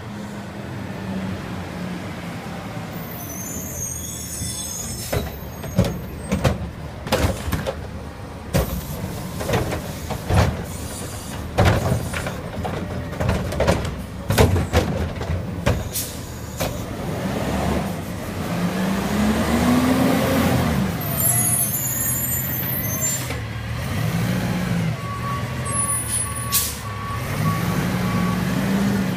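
Garbage truck engine running steadily while a run of knocks and bangs comes from the yard waste being dumped into it, about five seconds in and lasting some twelve seconds. The engine then revs up and down for about two seconds, and again twice more briefly near the end, with short high hisses of air.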